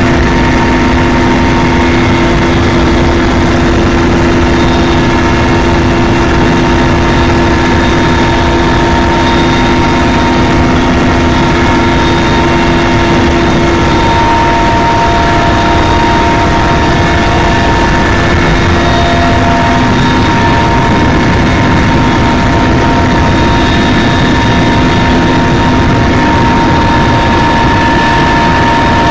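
Helicopter in flight: a steady, loud wash of engine and rotor noise with several held tones. Two of the lower tones fade out about twenty seconds in.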